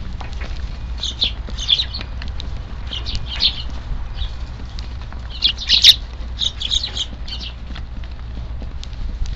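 Eurasian tree sparrows chirping in short bursts of several quick high notes, over a steady low rumble of strong wind on the microphone.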